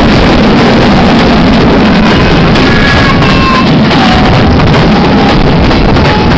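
Moving passenger train running along the track: a loud, steady rumble and rush. A few faint high tones come and go in the middle.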